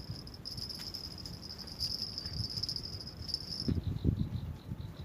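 An insect, cricket-like, calling in one high, steady trill that stops abruptly near the end. A few soft, low thumps come about four seconds in.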